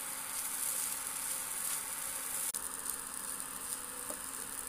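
Ground sesame paste and semolina frying in ghee in a non-stick pan, a steady sizzle as the mixture is stirred with a wooden spatula to roast it. The sizzle breaks off for an instant about two and a half seconds in and then carries on.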